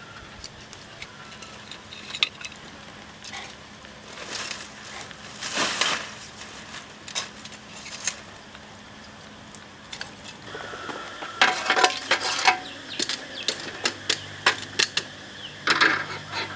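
Scattered clicks, knocks and clatter of utensils and dishes being handled, with a dense run of them about two-thirds of the way through and another near the end.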